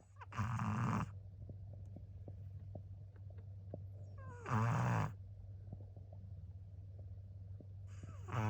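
Pet dog snoring in its sleep: three loud snores about four seconds apart, the later two with a pitch that slides downward, and a steady low hum between them.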